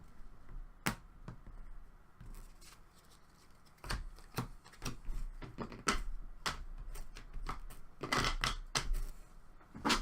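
Trading cards and their packaging being handled: an irregular run of sharp clicks and rustles, with a longer crinkle about eight seconds in.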